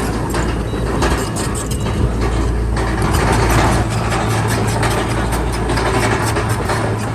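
Bulldozer's heavy diesel engine running steadily with the rapid clanking of its steel crawler tracks.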